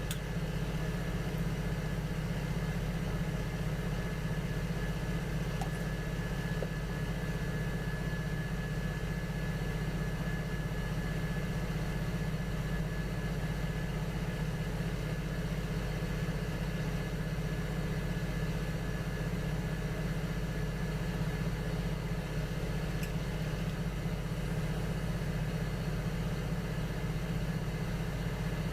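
Electric potter's wheel motor running with a steady hum and a faint whine, with an occasional soft click.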